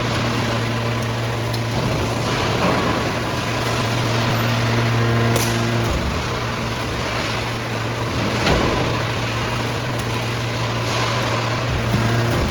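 Hydraulic aluminum can baler running: a steady hum from its power unit over dense mechanical noise, with a couple of sharp knocks.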